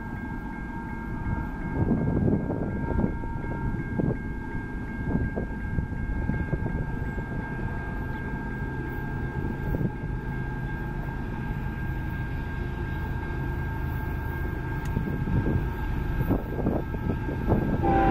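Distant Union Pacific diesel freight locomotives rumbling as the train approaches, the low rumble slowly growing louder, with gusts of wind buffeting the microphone. A train horn begins to sound at the very end.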